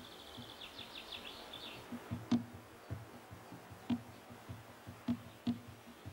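Savanna ambience: a bird gives a rapid trill of short high notes for about the first two seconds. After that come irregular low clicks and knocks, a few of them sharper and louder, spaced a fraction of a second to over a second apart.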